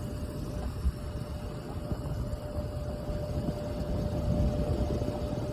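Wind buffeting the microphone: an uneven low rumble, with a steady faint hum running underneath.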